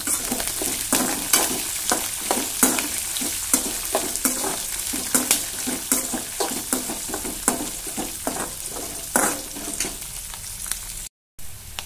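A tempering of peanuts, dals, green chillies and curry leaves sizzling in hot oil in a metal kadai while a perforated metal spoon stirs it, clinking and scraping against the pan many times. Near the end the sound drops out for a moment, and the sizzle then goes on more quietly without the stirring.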